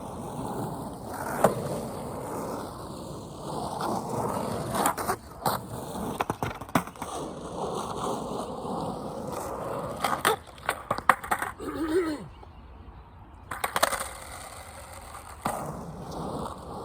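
Skateboard wheels rolling on pavement with a steady rumble, broken by several sharp clacks of the board. The rolling quiets briefly about twelve seconds in, then picks up again.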